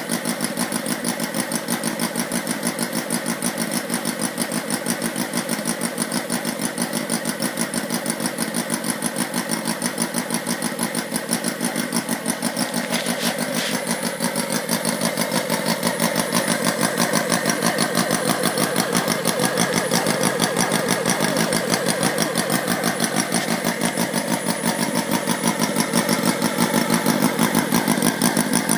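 A 32cc inline four-cylinder model engine from a Sterling kit running steadily, its rapid firing pulses even. It gets a little louder about halfway through.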